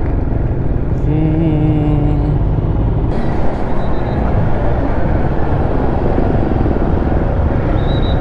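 Steady low rumble of road traffic and vehicle engine noise, heard while riding through a busy town street, with a short pitched sound about a second in.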